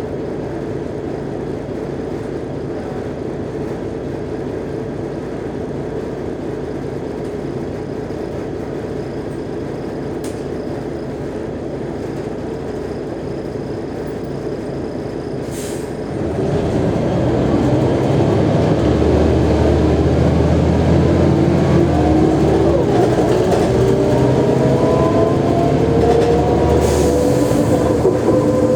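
Mercedes-Benz O345G articulated bus running with a steady drone, then about halfway through it gets louder and accelerates, with a deep rumble and a whine rising in pitch as it picks up speed.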